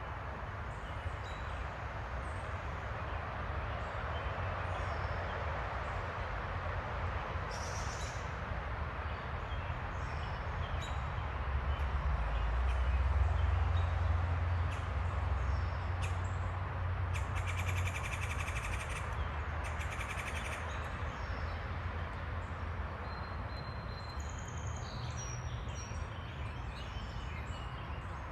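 Backyard birds chirping here and there, with two longer, raspy calls a little past the middle, over a steady background hiss and a low rumble that swells about halfway through.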